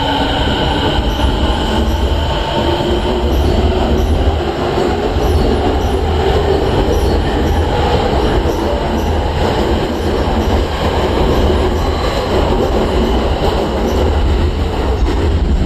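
Tokyo Waterfront Area Rapid Transit 70-000 series electric train pulling out of a station: its motors give a whine that rises in pitch over the first few seconds as it gathers speed, over a steady, loud rumble of wheels on rails.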